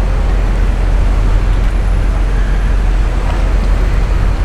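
Steady city street traffic noise with a heavy low rumble and no distinct single event.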